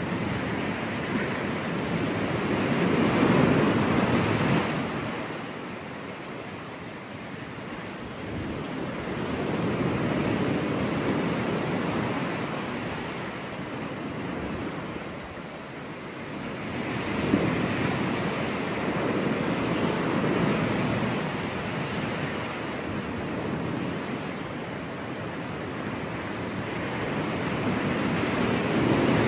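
Ocean surf: waves breaking and washing up on a beach, the rush swelling and fading about every six to seven seconds.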